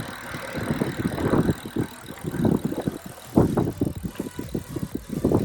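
Uneven, gusting low rumble of a bicycle ride, mostly wind and road noise on the microphone.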